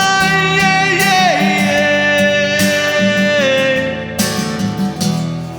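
A singer holds the last word of a chorus line on a long note that glides down about a second in, then settles on a lower held note. Acoustic guitar is strummed underneath. The voice stops a little before the end and the last strummed chords ring out, fading.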